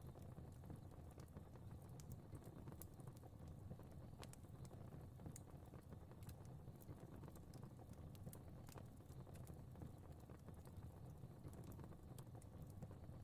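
Fire crackling: many faint, irregular pops and snaps over a low, steady rumble.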